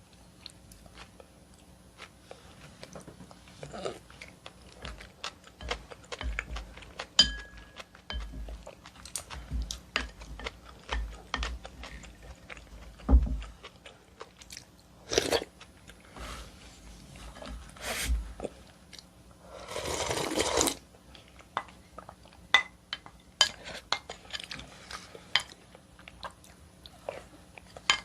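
Close-miked eating of oyster and seaweed soup: chewing and wet mouth sounds with many small clicks and soft low thumps, and one longer rushing sound about twenty seconds in.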